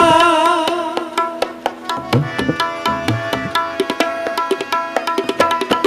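Tabla and harmonium playing a short instrumental passage of Sikh kirtan in Raag Malhar. The tabla strokes come quickly over the held harmonium notes, and the last sung note fades out in the first half second.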